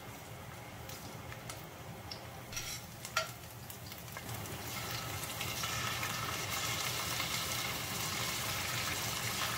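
Sliced red onion frying in oil in a stainless steel pan on a gas stove, with a couple of short knocks about three seconds in. From about halfway through, the sizzle grows louder and steady as raw chunks are laid into the hot oil.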